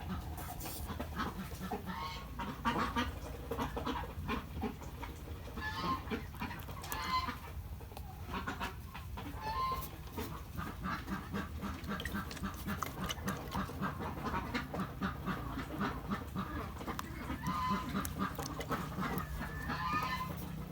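Farmyard poultry calling: many short, repeated calls that come in quick runs, especially in the second half, over a steady low hum.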